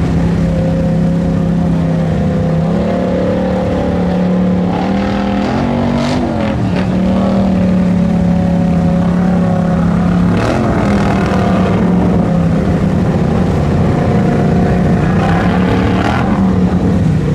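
Mud truck engine running hard at high revs, its pitch holding steady and stepping up and down a few times, with short sharp noises about six seconds in, around ten seconds and again near the end.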